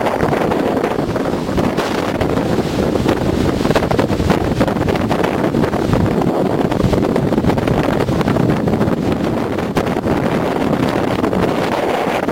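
Strong wind blowing hard across the microphone, a loud, continuous buffeting rumble.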